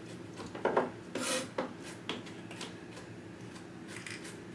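A few short scrapes and rattles of kitchen utensils and containers being handled while raw pork is seasoned, mostly within the first couple of seconds, with light clicks after.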